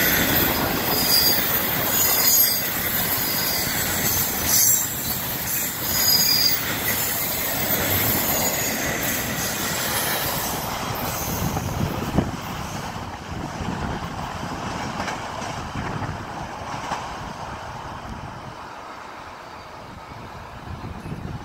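Loaded double-stack intermodal well cars rolling past on a curve, with wheel flanges squealing in short high-pitched bursts over the first several seconds. A single sharp clack comes about twelve seconds in. The rolling noise then fades steadily as the end of the train draws away.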